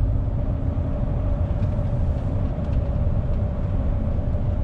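Laden lorry's diesel engine running with road rumble, heard from inside the cab: a steady low drone with a faint steady hum above it.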